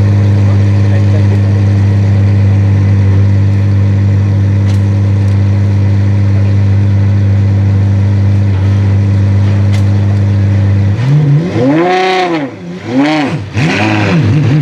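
Apollo Intensa Emozione's 6.3-litre naturally aspirated V12 idling steadily, then blipped three times in quick succession about eleven seconds in, each rev rising and falling before it drops back to idle.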